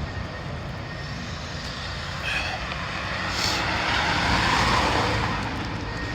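A vehicle passing on the street, its noise swelling and then fading over a couple of seconds, over a steady low outdoor rumble.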